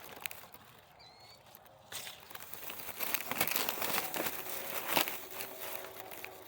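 Rustling and crinkling while apples are picked into a bag: leaves, branches and the bag handled, building up about two seconds in, with a sharp click about five seconds in.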